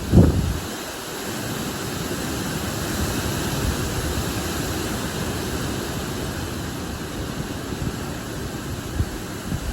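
Strong, gusting wind blowing through large trees, a steady rushing rustle of leaves and branches that swells and eases. A low thump of wind buffeting the microphone comes just after the start.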